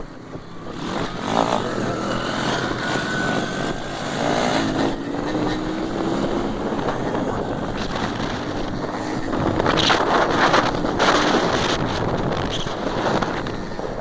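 Motorcycle engines running at speed in a race, their pitch climbing slowly, with wind buffeting the microphone and getting louder about two-thirds of the way in.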